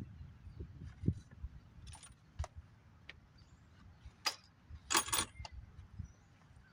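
Small metal objects being handled: scattered light clicks and clinks, with a brief jingling rattle about five seconds in.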